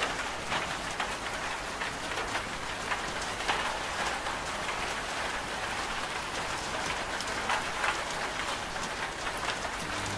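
Steady rain falling, with many separate drops striking a hard surface.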